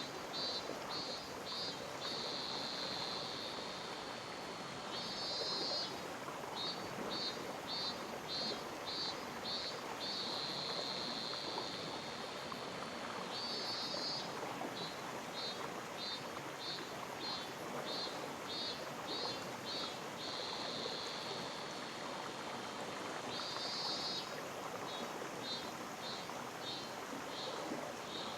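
Mountain stream flowing steadily over rocks. Over it a high-pitched animal call repeats in cycles of about ten seconds: a run of pulses about twice a second, then a steady buzz lasting a few seconds, then a short warbling burst.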